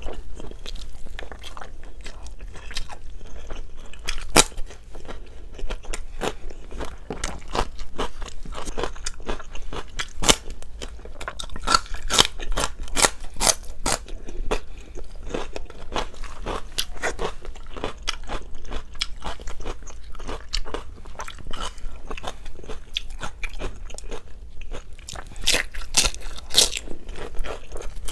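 Close-miked chewing of Bicol Express pork belly and rice, full of crisp crunches and wet mouth clicks. Louder bursts of crunching come about twelve seconds in and again near the end.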